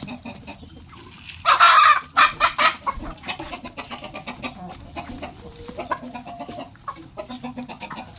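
Chickens clucking as they jostle with pigeons over scattered feed, amid many short ticks, with a loud noisy burst about a second and a half in and short high chirps later on.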